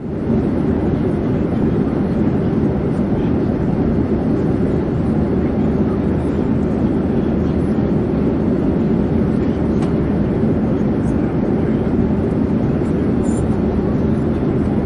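Airplane in flight: a steady, even drone, deep and unchanging, with no individual events.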